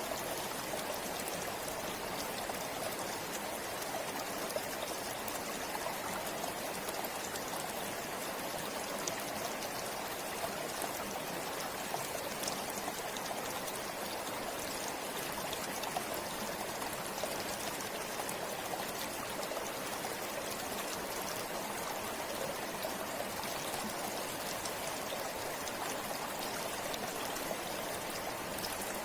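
A forest river flowing steadily over rocks, a continuous rushing and splashing with small frequent droplet splashes.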